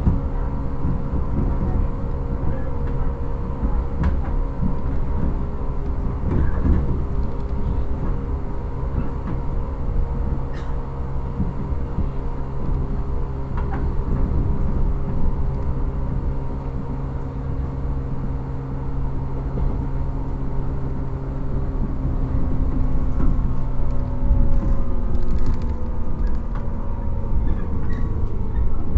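Onboard running sound of a JR 115 series electric train in a motor car: the MT54D traction motors hum steadily over the rumble of wheels on rail, with a few clicks from rail joints. In the last few seconds the motor tones drop slightly in pitch as the train slows.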